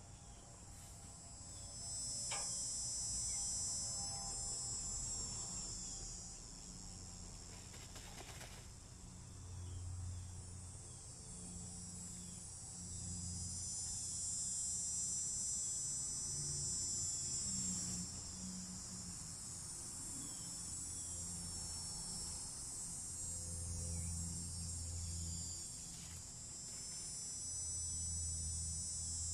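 Insects chirring in a steady high-pitched drone, with soft low sounds coming and going underneath.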